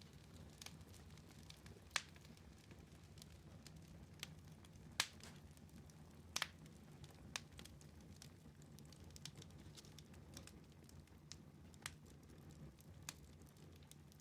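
Wood fire burning in a fireplace, crackling faintly: scattered sharp pops, the loudest about two and five seconds in, over a low steady rumble.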